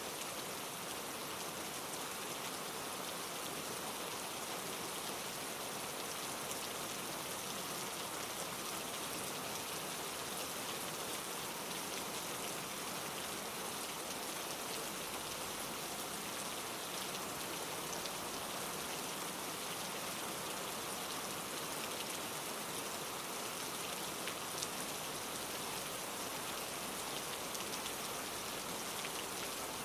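Steady rain falling on leaves, a continuous even hiss with faint scattered drop ticks.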